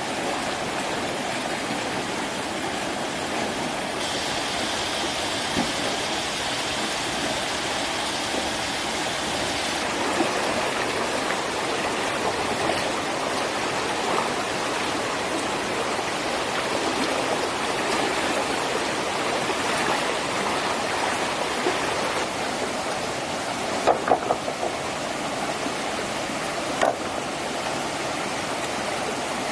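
Small river flowing, a steady rushing of water, with a few sharp knocks near the end.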